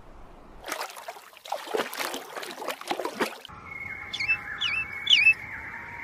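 Bird calls: about three seconds of harsh, scratchy calls, then three quick downward-sliding whistles over a steady high tone.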